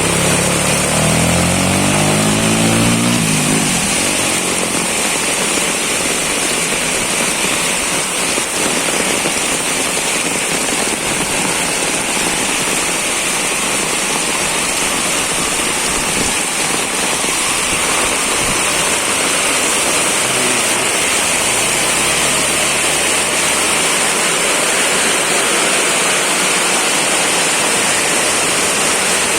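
Heavy rain pouring steadily. A vehicle engine passes in the first three seconds, and a fainter engine is heard briefly a little past the middle.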